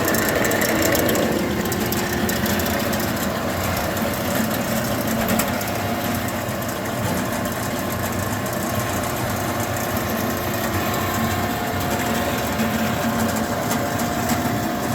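W.F. Wells W-10-2 horizontal bandsaw with a 5 HP variable-speed drive, running steadily through its automatic cutting cycle. A faint steady whine joins about six seconds in.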